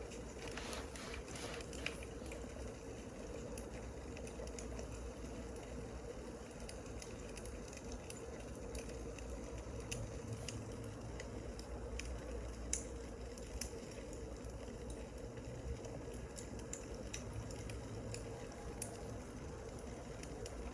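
Wood fire crackling: irregular small pops and snaps over a steady soft hiss.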